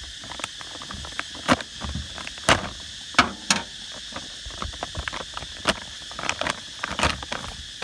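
Scattered sharp clicks and knocks of a boxed new fuel pump and its packaging being handled and opened, over a steady high insect chirr.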